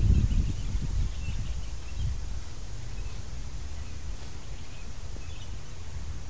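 Scattered faint bird chirps over a steady low rumble, with no ball strikes heard.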